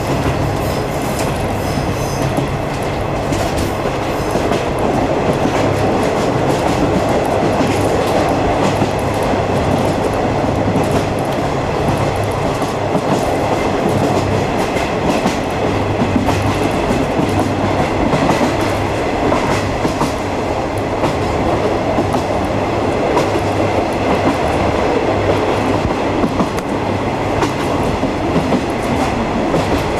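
A DD51-hauled 50-series passenger train running along the line, heard from aboard the coach: a steady rumble of wheels on rail with a clickety-clack of rail joints and a low steady hum underneath.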